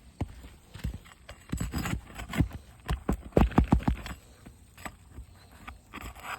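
Irregular knocks, taps and clicks from work on an asphalt-shingle roof as a shingle is unsealed and lifted, with a quick flurry of sharp knocks a little past the middle.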